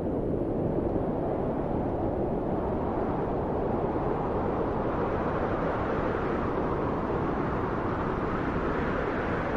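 Wind blowing steadily, a low, even rushing that grows a little brighter near the end.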